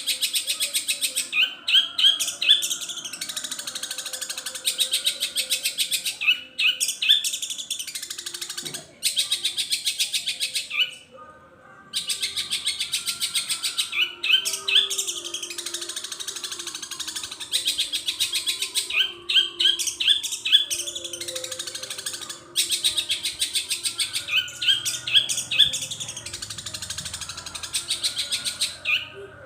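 Long-tailed shrike (cendet) singing a long, rapid high-pitched chattering song packed with mimicked calls, with a quick run of rising chirps every few seconds. The song breaks off briefly twice, about 11 and 22 seconds in.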